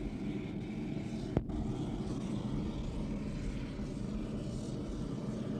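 A steady engine drone, with a single sharp click about a second and a half in.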